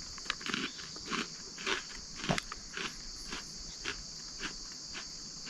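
Crunchy MRE pepperoni pizza cheese crackers being chewed, a crunch about every half second that fades toward the end, over a steady chorus of crickets.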